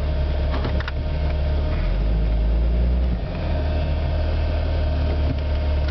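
Jeep Cherokee's engine running with a steady low drone, heard from inside the cabin. Its note dips lower for about a second around the middle, and a couple of light knocks come just under a second in.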